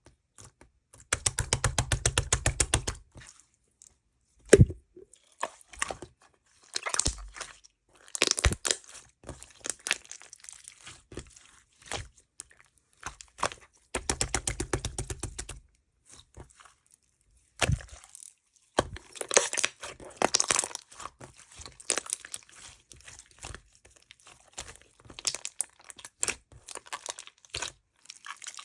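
Close-miked crackling and crinkling of a handled material, broken by runs of fast, even clicks, about a second in and again near the middle.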